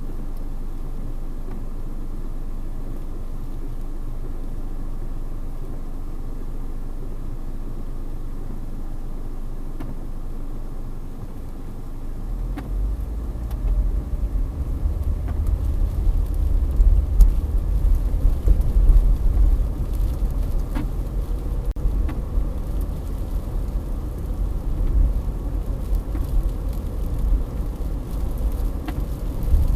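Strong wind gusts buffeting the microphone during an arctic-air wind storm: a steady low rumble that turns into heavy, uneven gusting about twelve seconds in, with a few faint ticks.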